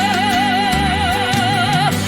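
A sung song: a singer holds one long note with a wide, even vibrato over sustained instrumental backing, letting it go just before the end.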